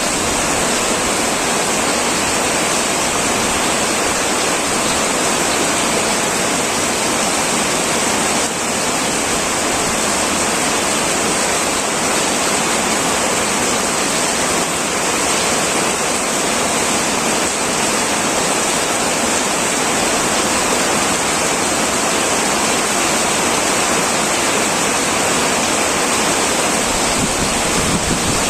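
Heavy rain falling on an old tin roof, an even, steady hiss with no separate drops or thunder standing out.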